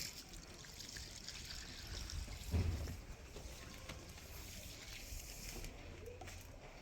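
Faint trickling water, with a brief low thump about two and a half seconds in.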